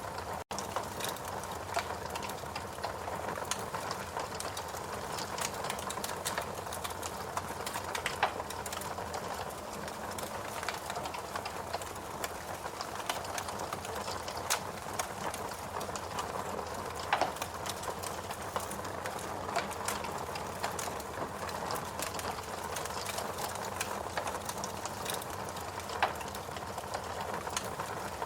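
Fireplace crackling: a dense stream of small crackles and pops over a steady low hiss, with a few louder pops.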